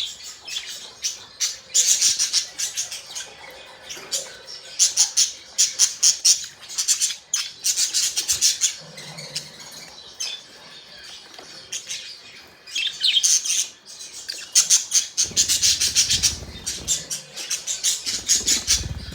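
Budgerigars chattering: rapid high chirps, clicks and warbles in bursts, with a quieter lull around the middle.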